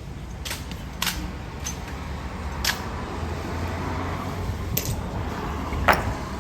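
Five sharp, short clicks at irregular gaps over a steady low background hum, the last and loudest near the end.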